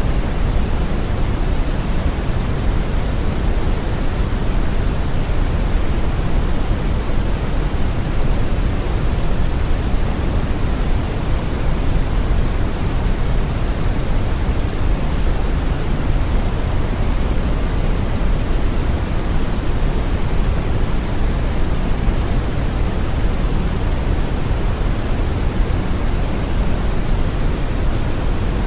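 Steady brown noise: an even, unchanging rush of synthetic noise, heaviest in the low end and rolling off toward the highs.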